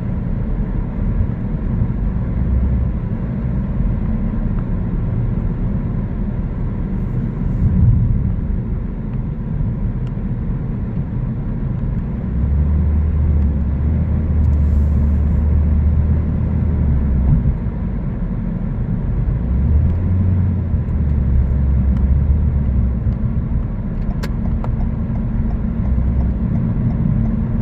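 Car driving along a road: a steady low rumble of engine and tyre noise, which grows heavier for about ten seconds midway.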